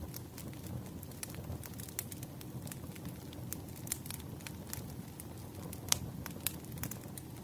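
Wood fire crackling: a steady low rush of burning logs with frequent irregular sharp pops, the loudest about six seconds in.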